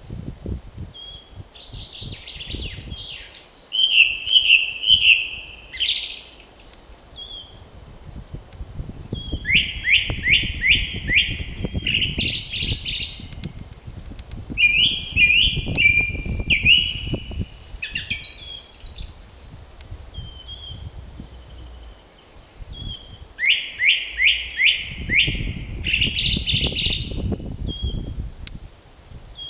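A songbird singing in spring, repeating a short song every several seconds: a quick run of about five notes that ends in a higher flourish, with softer single calls between songs. Wind gusts rumble on and off underneath.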